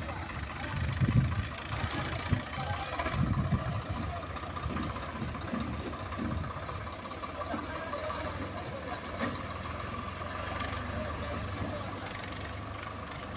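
Heavy diesel engine running steadily, with uneven low thuds in the first few seconds.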